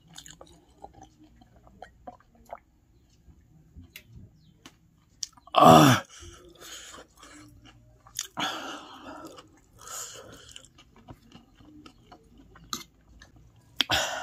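A person chewing a mouthful of chow noodles with pork, with many small wet mouth clicks and smacks. A brief, loud voiced sound comes about six seconds in, and there are a few noisier bursts later on.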